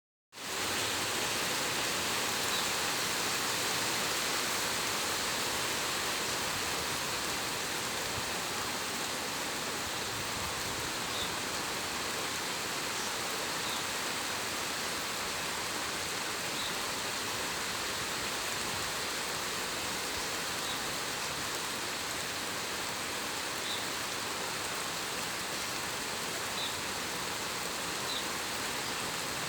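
Steady rain falling: an even hiss, with now and then a single drop ticking distinctly above it.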